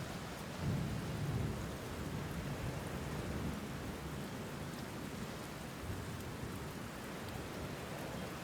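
Steady rainfall, a continuous even hiss of falling rain, with a low rumble of distant thunder swelling about a second in and fading away.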